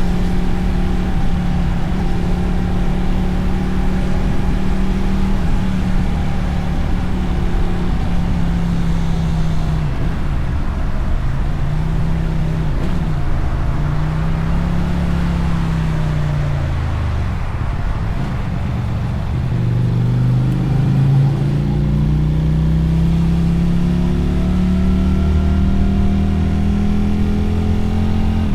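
Motorcycle engine and exhaust under way, heard from the rider's seat. The note holds steady, then falls and rises with the throttle through the middle. It drops about two-thirds of the way in, then climbs steadily as the bike accelerates.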